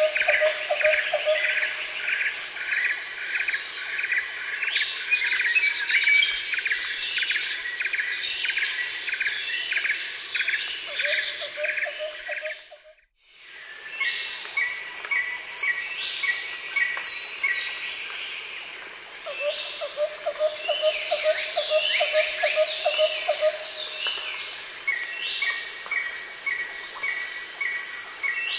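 Outdoor chorus of birds chirping and calling over a steady high insect drone, with a low pulsing trill that starts and stops several times. The sound fades out to silence for about a second near the middle, then fades back in.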